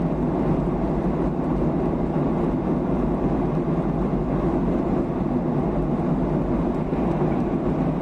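Steady low drone inside the passenger cabin of a Boeing 737-800 in flight: engine and airflow noise, unchanging throughout.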